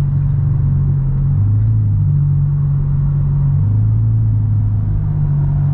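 Car driving at steady speed: a loud, steady low rumble of engine and road, its low drone stepping between two pitches every second or two.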